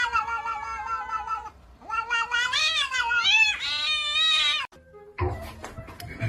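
A cat yowling in long, drawn-out meows that waver up and down in pitch. One call trails off about a second and a half in, and a second, longer one follows and stops abruptly near the end.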